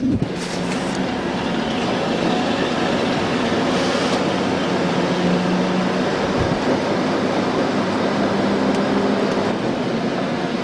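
A steady mechanical drone with a constant low hum, with brief hissing near the start and again about four seconds in.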